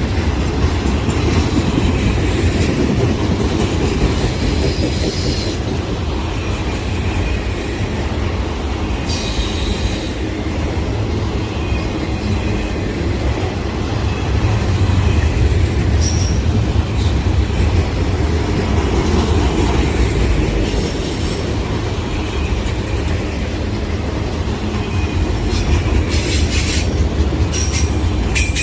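Freight train rolling past: a steady low rumble of wheels on the rails, with faint high-pitched squeals at times and a quick run of sharp clicks near the end.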